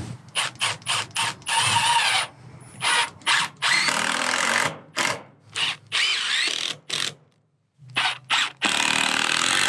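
Power drill driving toenail screws into a treated-lumber brace. It starts with a few quick trigger pulses, then runs in longer spurts, with a short pause about seven seconds in.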